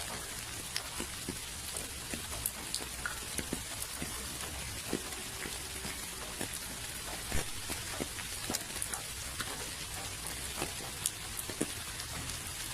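Steady rain falling, an even hiss with many separate drops tapping sharply on surfaces at irregular moments.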